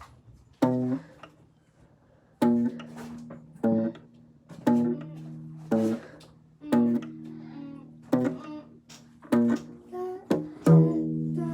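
Single notes picked one at a time on a small guitar's D string, with one finger pressing a fret and moving to new frets between notes. About ten notes ring and fade at changing pitches, making a simple spooky effect.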